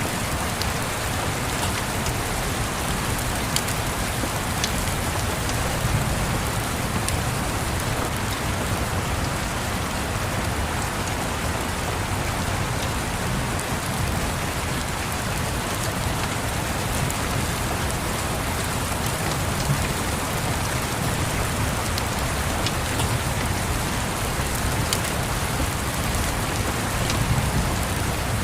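Steady rain pattering on a surface, with a low rumble underneath and a few faint fire crackles scattered through it.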